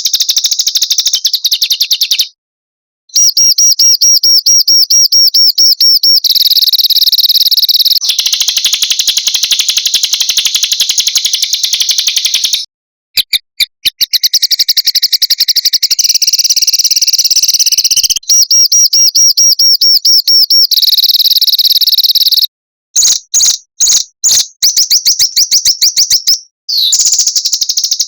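Small songbirds' rapid, high-pitched trills and fast repeated rattling notes in long dense runs. Abrupt dead-silent breaks cut in a few times, the splices of an edited birdsong training recording.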